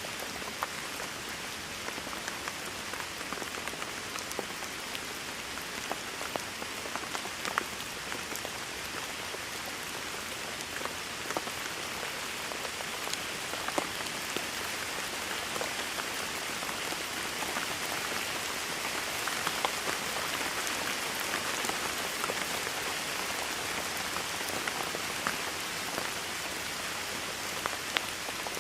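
Steady rain falling on a hard surface, an even hiss with individual drops ticking sharply here and there; the rain grows slightly heavier partway through.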